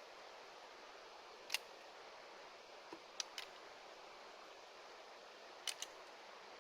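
Wood fire crackling faintly over a soft hiss, with a few sharp pops, two of them in quick pairs.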